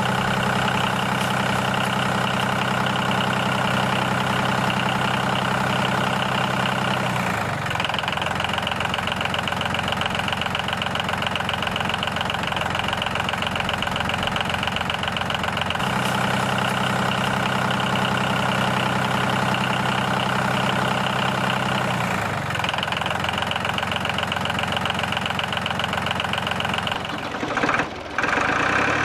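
Tractor engine idling steadily with a knocking beat, its note shifting between two settings every six to eight seconds, then briefly cutting out near the end.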